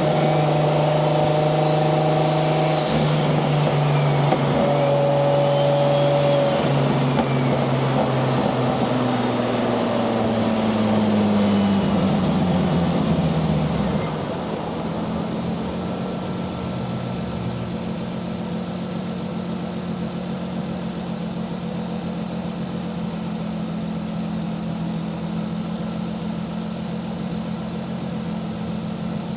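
Nissan 240SX's swapped single-turbo 1JZ VVTi straight-six running at steady revs. Its pitch falls off a little before halfway, then it drops to a quieter, steady low hum for the rest of the time.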